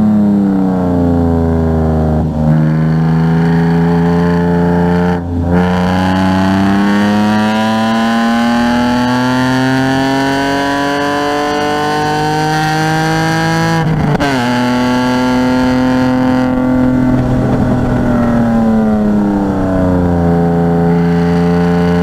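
Car engine driven hard through a session: its pitch falls at first, then climbs steadily for about eight seconds, drops abruptly about fourteen seconds in, holds, and falls again near the end.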